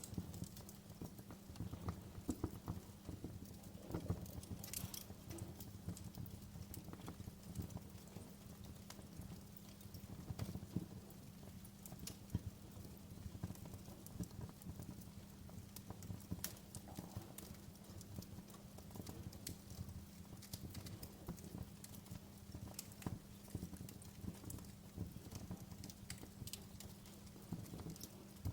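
Wood fire crackling in a fireplace: irregular sharp snaps and pops over a steady low rumble of the flames, with a louder snap about four seconds in.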